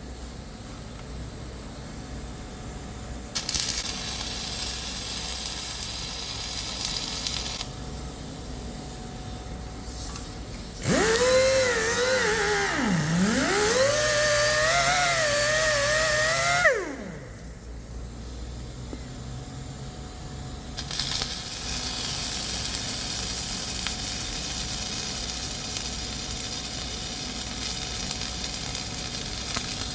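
Flux-cored wire welding arc sizzling in runs of a few seconds, with pauses between. In the middle, the loudest sound is a high whine of about six seconds whose pitch dips sharply, recovers and then cuts off.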